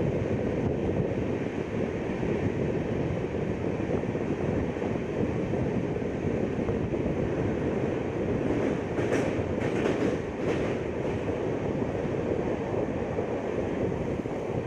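Passenger express train running along the track: a steady rumble of wheels on rails, with a few brief higher-pitched sounds about nine to eleven seconds in.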